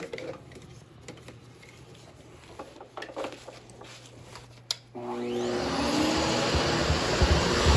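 A few faint knocks, then a sharp click about five seconds in as the 13-inch Hoover Hushtone upright vacuum is switched on: its motor spins up with a rising whine over about a second and settles into a steady, loud running hum.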